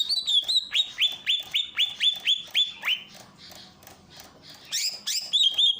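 Cucak ijo (green leafbird) singing a fast run of sharp, repeated notes that each sweep downward, about four a second. It pauses about three seconds in and starts again near the end.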